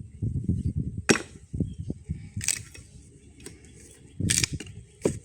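Axe blows chopping and splitting firewood: about four sharp, separate strikes, roughly a second or more apart.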